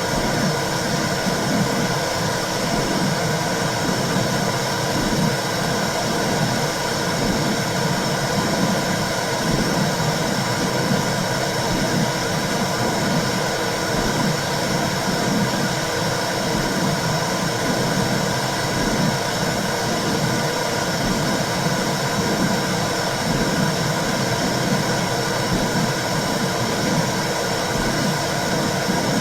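Womb sound played to soothe a baby: a steady noise, heaviest in the low range, with an uneven pulsing running through it.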